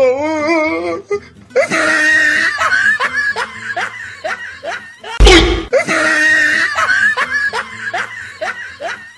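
A canned laugh-track sound effect, quick repeated bursts of laughter, running twice, cut in about five seconds in by a loud, sudden boom.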